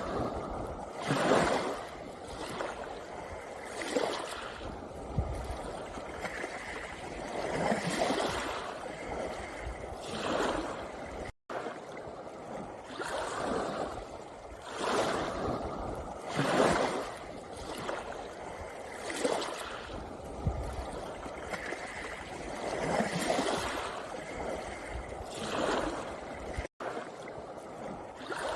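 Small sea waves washing onto a pebble beach, each wash swelling and drawing back every two to three seconds. The sound drops out for a split second twice.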